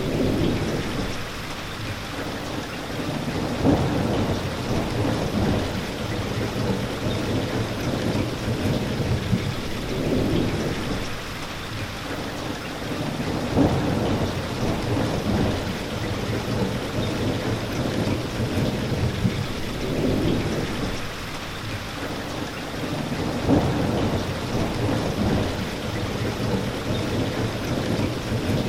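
Steady rain falling, with low rumbles that swell and fade every few seconds; the pattern repeats about every ten seconds.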